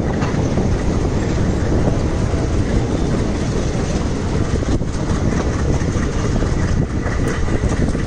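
Diesel-hauled Indian Railways passenger train running at speed, heard from on board: a steady, loud rumble of the wheels on the rails.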